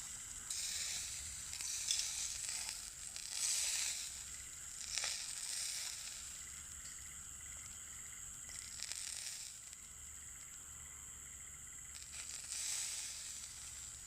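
Meat sizzling on a grill over a wood fire: a steady hiss with several louder surges and a few sharp pops.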